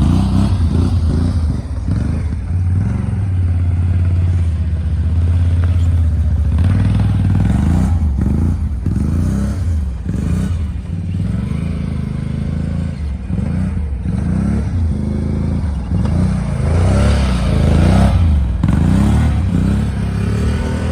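Engine of a 2021 Jeep Renegade revving up and down over and over as the SUV spins donuts in snow.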